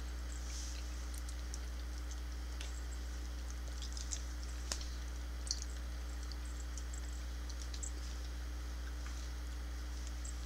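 Soft chewing and small wet mouth clicks from people eating chewy filled Twizzler licorice, with a few slightly sharper ticks about four to five and a half seconds in. A steady low hum runs underneath.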